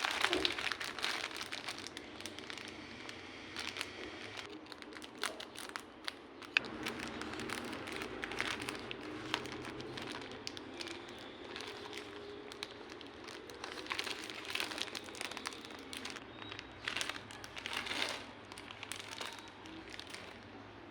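Irregular crinkling and rustling of something being handled, with scattered sharp clicks; the loudest click comes about six and a half seconds in.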